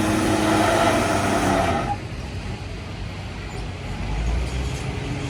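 Street stock gas pickup truck's engine running hard at high revs under load while pulling the sled, then cutting back abruptly about two seconds in to a much quieter low rumble as the driver lets off.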